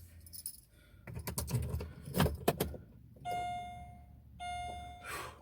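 Car keys jangling and clattering as the key is handled at the ignition. About three seconds in, the car's warning chime starts sounding in steady one-second tones, a sign that the dashboard electronics have power from the battery.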